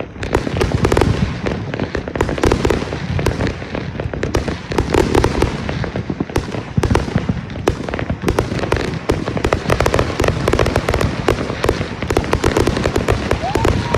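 Fireworks show barrage: rapid, overlapping bangs and crackling, several a second without let-up, with heavy low thuds beneath.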